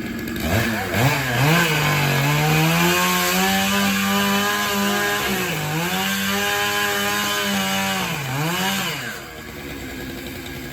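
Chainsaw revved up about half a second in and held at high speed, its pitch dipping briefly twice, then dropping back to a lower idle near the end.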